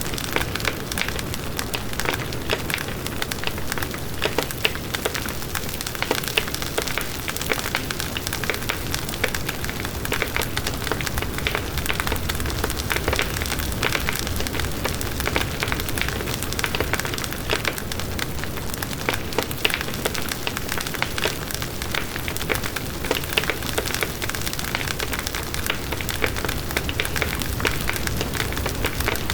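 Campfire burning: wood crackling with many small sharp snaps and pops, over a steady low rush of the flames.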